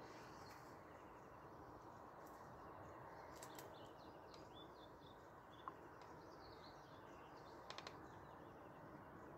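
Near silence with faint songbird chirps and short trills, and a few soft clicks, three of them in quick succession near the end.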